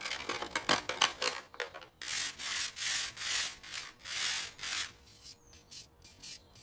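Scraping strokes against an old can, taking off the last of the old coating or grime. First come quick, short scrapes, then several longer, slower strokes, which grow fainter near the end.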